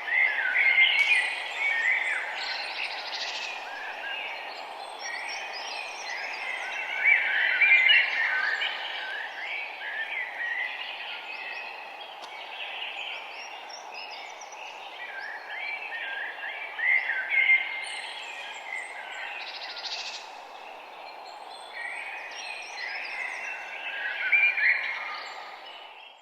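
Several songbirds singing and chirping in overlapping phrases, over a steady low background hiss; the sound fades out at the very end.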